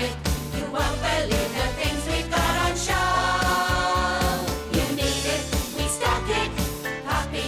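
Closing theme song of a children's puppet show: bouncy music with a steady beat and singing voices, with a long held note about three seconds in.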